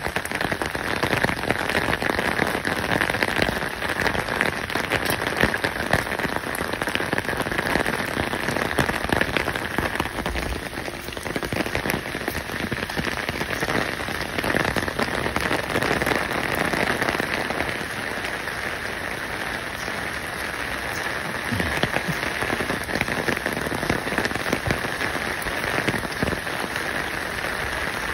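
Steady, dense crackling patter like rain falling on a surface, without letup.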